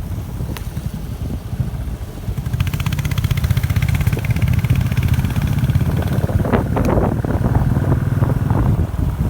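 Motorcycle engine running on the move. It gets louder about two and a half seconds in.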